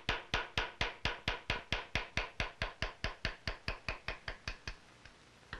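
Light, quick hammer taps driving a round-bottom engraving chisel through a sheet-brass side plate, about five taps a second. The taps grow fainter and pause briefly near the end before resuming.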